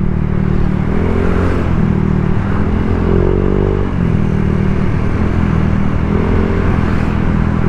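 Honda Vario 125 scooter's single-cylinder engine running on the move through an aftermarket racing-style exhaust. The engine note rises briefly about three seconds in and drops back about a second later.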